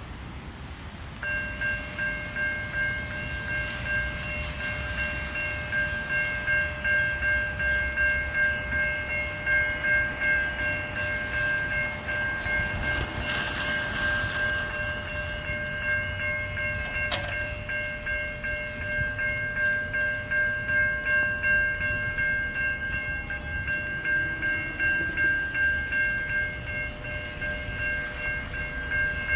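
Railway level crossing warning bells start suddenly about a second in and keep ringing with a steady pulsing beat, over a low rumble.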